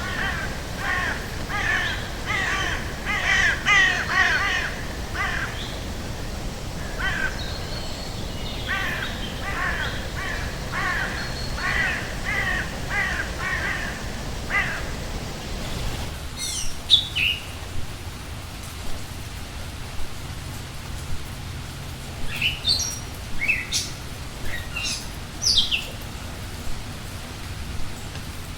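Birds in a forest soundscape: one bird calls over and over at about two calls a second for the first half, then after a change in the background, scattered short high chirps and whistles from other birds over a steady low background noise.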